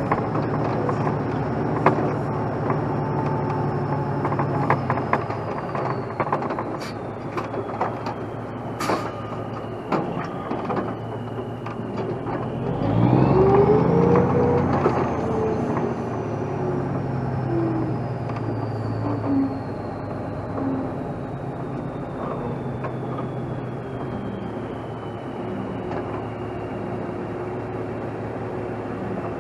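Heavy diesel truck engine running steadily, with several sharp metallic knocks, then briefly revving up and settling back about thirteen seconds in. A thin high whine slides down and back up over it.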